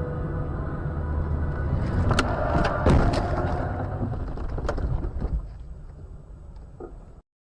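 A car's road and engine rumble, broken about two to three seconds in by a collision: several sharp bangs and crunches close together. The rumble then dies away.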